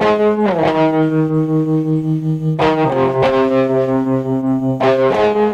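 A band's song intro: sustained held chords that change about every two seconds.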